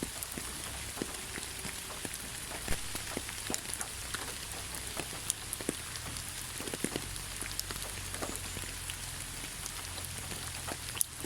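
Steady rain falling in a pine forest: an even hiss with many separate drops ticking close by.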